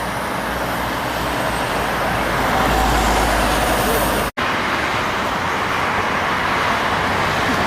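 Heavy road traffic passing: steady truck engine and tyre noise, with a split-second gap about four seconds in before it resumes.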